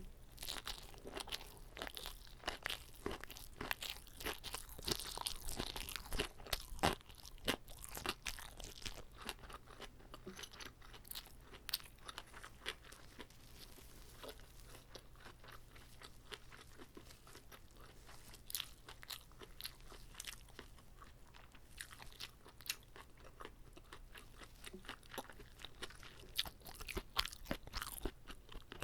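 Close-miked biting and chewing of a whole uncut gimbap roll: a run of sharp, crisp mouth crackles and chews, thickest in the first several seconds and again near the end.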